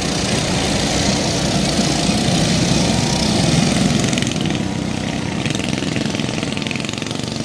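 Small mini bike engines running under throttle during a race, growing louder to about halfway and then easing off a little.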